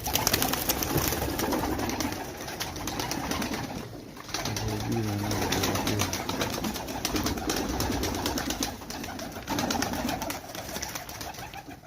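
Domgir pigeons cooing, over a steady clatter of small clicks and rustles. One low, drawn-out coo stands out about five seconds in.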